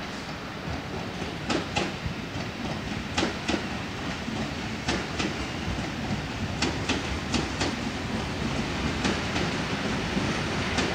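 Electric multiple unit passing at a steady speed, with a rolling rumble and its wheels clacking over rail joints in close pairs, a pair about every second and a half to two seconds.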